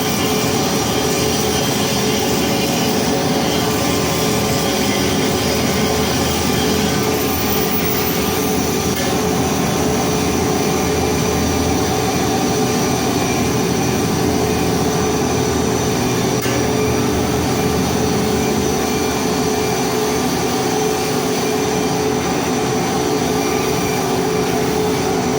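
Welding equipment running steadily while a pipe is hardfaced: an even, continuous noise with a constant hum and no breaks.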